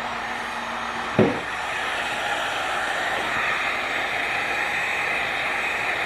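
Heat gun blowing steadily with a rushing hiss. A single knock comes about a second in, and the blowing is slightly louder after it.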